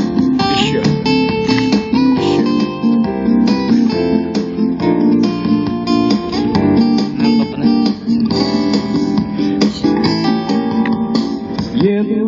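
Acoustic guitar strummed in steady chords: the instrumental passage of a song, with no singing.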